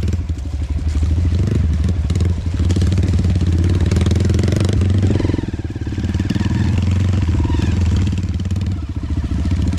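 Dirt bike engine running steadily under throttle as it rides a trail, with the throttle briefly eased off about halfway through and again near the end.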